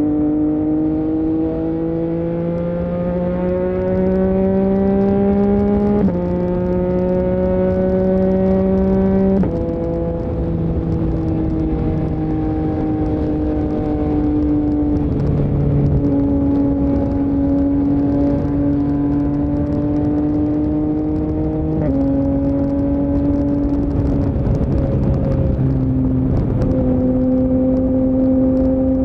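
Yamaha MT-09's CP3 crossplane three-cylinder engine running through an Akrapovic full-system exhaust under way. Revs climb steadily, with gear changes about six and nine seconds in, then ease off and hold fairly level, with further shifts near the end. Low wind rush runs underneath.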